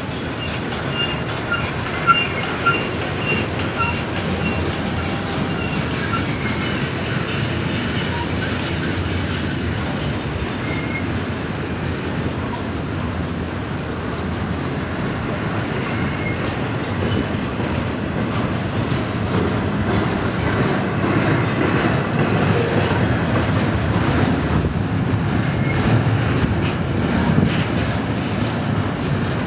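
Double-stack intermodal freight train's container well cars rolling past, a steady rumble of steel wheels on rail with clacking over the rail joints. A faint high squeal comes from the wheels in the first few seconds, and the rumble grows a little louder in the second half.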